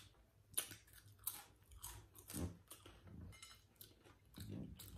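Close-miked chewing of tortilla chips with taco dip: faint, irregular crunches, a few of them spread through the moment.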